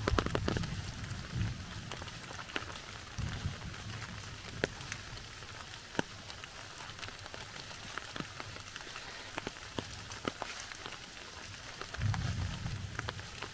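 Steady rain falling in woodland, a soft hiss with scattered single drops ticking on leaves. Low rumbles swell up near the start, again about three seconds in, and near the end.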